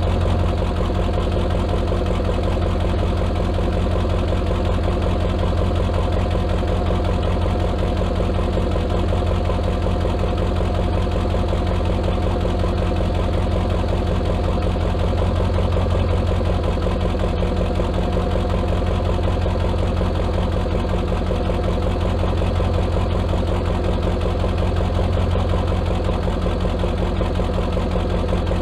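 Ford 7.3 Powerstroke turbo-diesel V8 in a 1997 F350 idling steadily, with an even diesel clatter.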